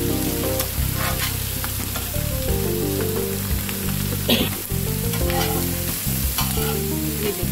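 Peppers and chicken sizzling on a hot tawa griddle while a slotted metal spatula scrapes and tosses them, with scattered clicks and one louder scrape about four seconds in. Background music with a simple stepping melody plays underneath.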